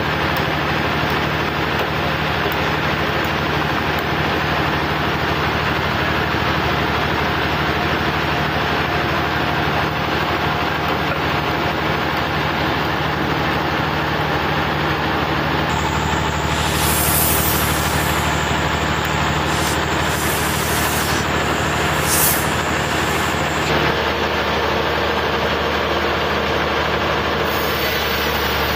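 Portable sawmill running steadily with a continuous engine hum and machine noise. Several short hissing sounds come in the second half.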